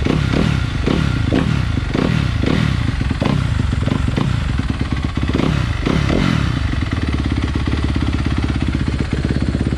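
2014 Honda CRF250R's 250 cc single-cylinder four-stroke engine, breathing through a 2016 exhaust with a Powerbomb header, blipped in quick throttle revs about twice a second. About seven seconds in it settles into a steady idle.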